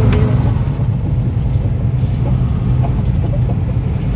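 Heavy truck driving, its engine and road noise making a steady low drone, with one brief click right at the start.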